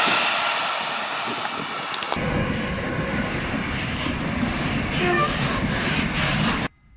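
Trains running past at close range: an electric multiple unit rolling away, fading, then from about two seconds in a freight train of container wagons passing steadily with a dense wheel-and-rail noise, until the sound cuts off abruptly near the end.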